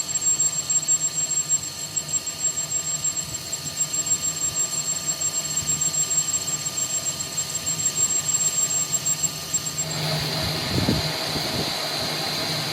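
Machinery running with a steady hum and a high squealing whine, the loudness pulsing unevenly. About ten seconds in, the high whine stops and the sound turns steadier and noisier.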